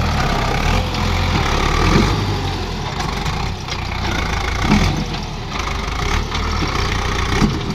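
Diesel tractor engine running steadily at a low, even note.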